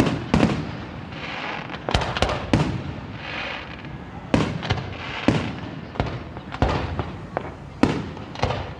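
Aerial firework shells bursting at a public display: about ten sharp bangs at irregular intervals, some in quick pairs, with crackling between them.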